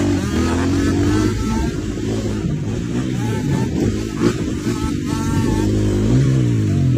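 Motorcycle engine running and being revved, its pitch wavering and rising then falling again near the end.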